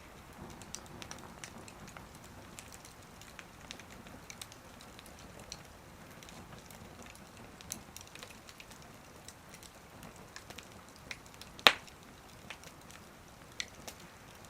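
Wood fire crackling in a small wood stove: a soft steady hiss with scattered sharp snaps, and one loud pop about twelve seconds in.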